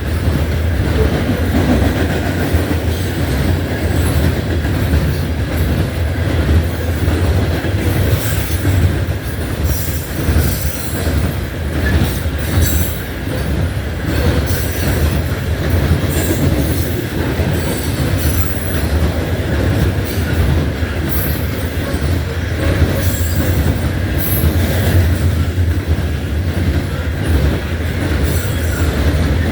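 Loaded coal hopper cars of a freight train rolling past, a steady loud rumble with wheel squeal and clatter from the wheels on the rails.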